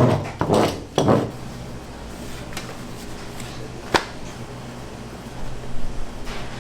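Kitchen work sounds: a few knocks and clatters in the first second, then a steady low hum with one sharp click about four seconds in.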